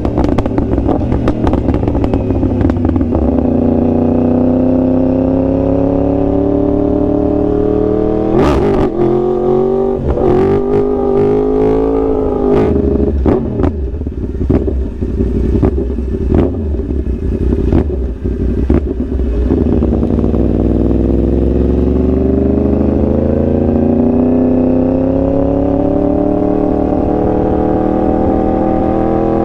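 2021 Yamaha R1's crossplane inline-four engine. The revs fall over the first few seconds, then a quick rev comes about eight seconds in. For the next ten seconds it runs at lower revs, scattered with many sharp pops. The revs then climb steadily through the last ten seconds as the bike accelerates.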